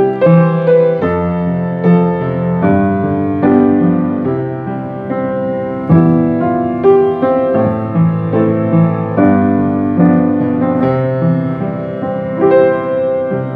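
Piano playing a slow, gentle instrumental passage of struck chords and melody notes, a new note or chord about every second.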